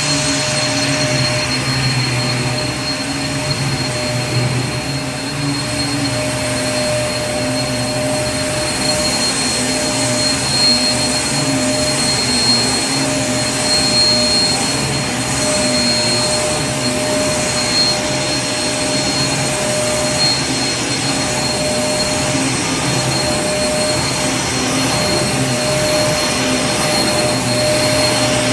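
Vacuum cleaner running steadily: a continuous rushing air noise with a steady high whine over a low motor hum.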